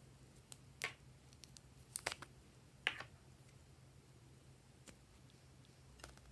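Glossy slime being squeezed and kneaded by hand, giving a few scattered sharp clicks and pops, the loudest about three seconds in, over a steady low hum.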